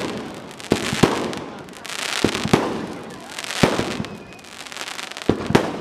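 Aerial fireworks shells bursting in quick succession, sharp bangs coming mostly in pairs every second or so, each followed by a crackling, sizzling tail.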